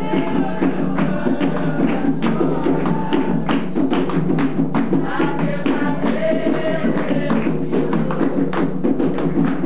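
Umbanda ritual music: a ponto with hand drums and other percussion beating a fast, steady rhythm under a group of voices singing.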